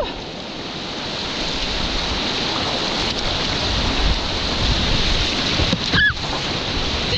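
Steady rush of river water around a kayak, with wind buffeting the microphone. A single short rising-and-falling call sounds about six seconds in.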